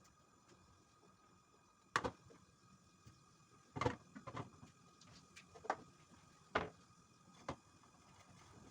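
About six short knocks and clicks, spread unevenly and the loudest about two and four seconds in, from household items and fittings being handled while a kitchen is cleaned, over a faint steady room background.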